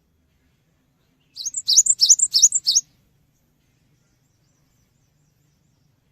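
Cinereous tit (gelatik batu) singing one quick phrase of about eight sharp, high notes, starting a little over a second in and lasting about a second and a half.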